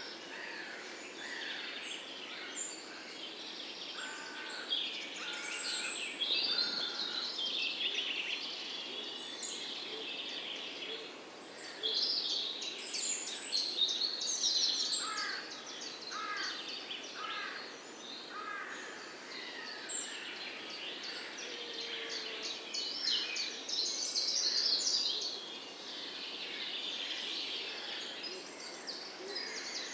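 Several songbirds singing and chirping at once, a dense mix of fast trills and quick repeated notes. Between about four and seven seconds in, a lower bird repeats a short, level whistled note three times, and in the middle a run of quick falling notes.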